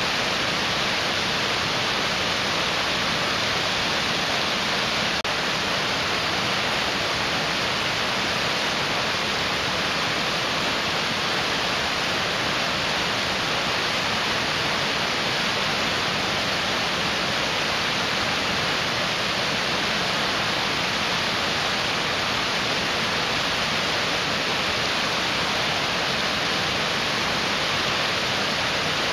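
Mountain stream rushing: a steady, dense roar of fast-flowing water that does not change.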